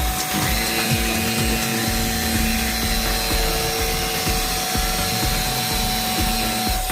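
A power tool running continuously, with a steady whine held from about half a second in until near the end.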